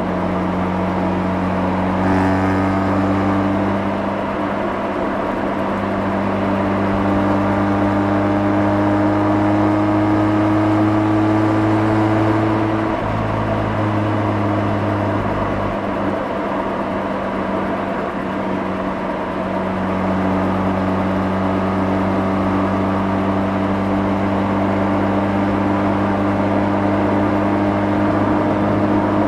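Mazda RX-8's two-rotor Wankel rotary engine and exhaust running on the move, picked up at the rear bumper. The engine note climbs slowly for about ten seconds, drops off about thirteen seconds in, then holds steady.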